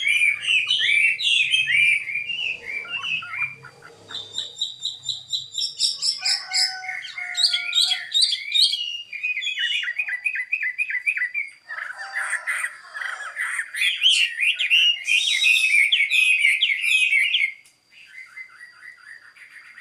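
A Chinese hwamei (họa mi) sings a loud, varied song of quick repeated notes and changing phrases, which turns quieter near the end.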